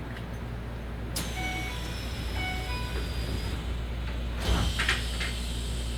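Inside a Keisei 3000-series electric train car stopped at a station: a door chime sounds in short repeated two-note pairs, then the sliding doors close with two thuds about four and a half seconds in. A steady low hum from the car's equipment runs underneath.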